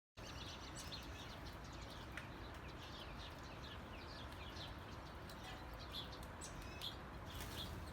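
Birds chirping: many short, falling chirps over a steady background hiss.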